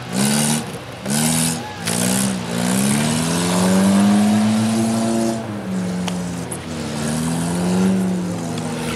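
Racing car engines revving on a dirt track, several notes rising and falling as the cars accelerate and ease off, with two short bursts of rough engine roar in the first two seconds.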